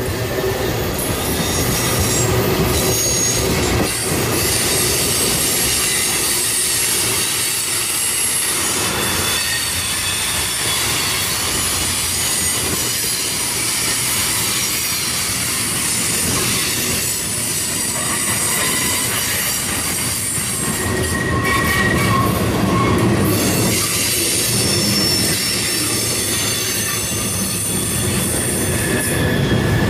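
Freight cars (tank cars, then flatcars loaded with steel) rolling past: a steady rumble of steel wheels on rail, with high-pitched wheel squeal coming and going.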